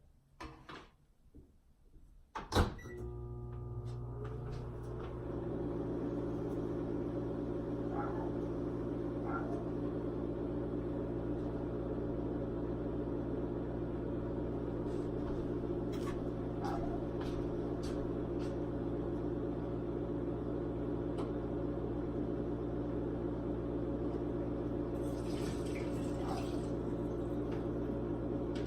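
A few small clicks, then a sharp click about two and a half seconds in. A microwave oven then starts up and runs with a steady hum.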